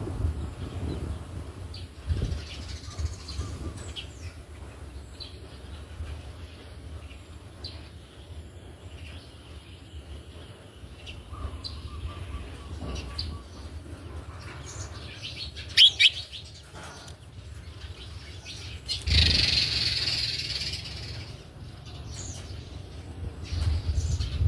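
House sparrows chirping with wing flutters, as an adult feeds its chicks. There is a short cluster of sharp clicks about two-thirds of the way in, and a louder burst of high chirping about two seconds long near the end.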